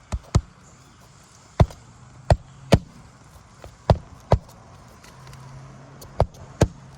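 Hand hammer driving roofing nails into asphalt shingles: nine sharp strikes in quick pairs and triples.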